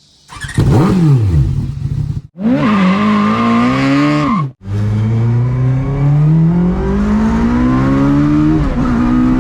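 Car engine in three short clips separated by abrupt cuts. First the engine note drops quickly, then it revs with a high whine over it, then it accelerates in one long, steady pitch rise, with a brief dip near the end.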